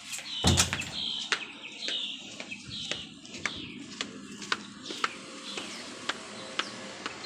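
Small birds chirping outdoors: short, high, falling chirps repeated every half second or so, thinning out after the first few seconds, with scattered sharp ticks.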